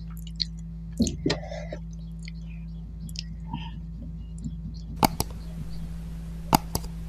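Close-up eating sounds: soft mouth clicks and smacks while chewing, with a few louder clicks about a second in, over a steady low hum. About five seconds in a hiss starts with a sharp click, and another sharp click follows about a second and a half later, typical of the sound effect of a subscribe-button animation.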